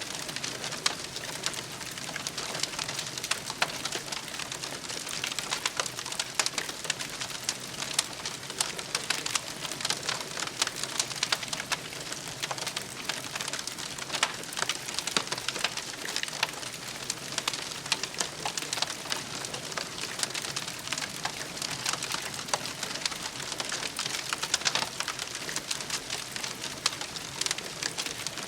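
Wood campfire burning, with steady crackling and many small pops over a soft hiss.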